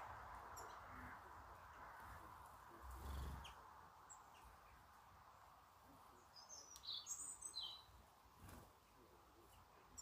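Quiet garden ambience with a quick run of short, high songbird chirps about six to eight seconds in, and a brief low rumble near three seconds.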